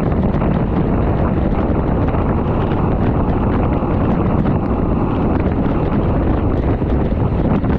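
Wind rushing over the microphone of a bicycle moving at speed: loud and steady, heaviest low down, with no breaks.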